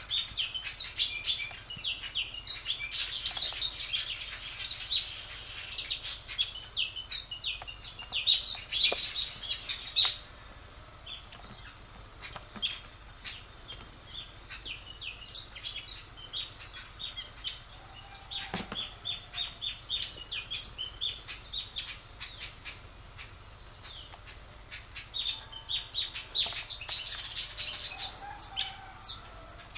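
Small birds chirping and twittering in quick, overlapping calls, dense for the first ten seconds, sparser in the middle and busier again near the end.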